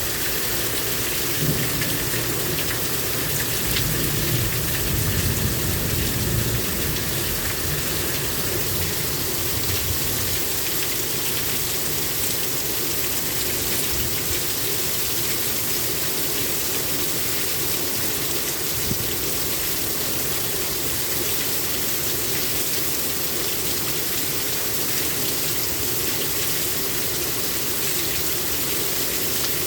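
Heavy rain pouring down steadily in a thunderstorm, with a low rumble of thunder in the first several seconds that fades out.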